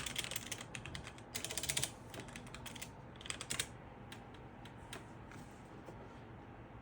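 Rapid light clicks and taps, typing-like, that stop about three and a half seconds in.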